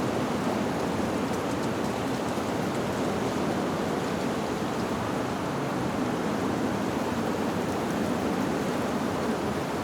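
Wind blowing steadily through leaves: an even, continuous rushing with no chime strikes heard.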